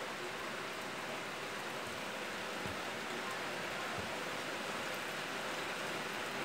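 Heavy downpour: a steady hiss of rain pouring onto a road and paved ground, with a couple of faint thuds of drops landing nearby.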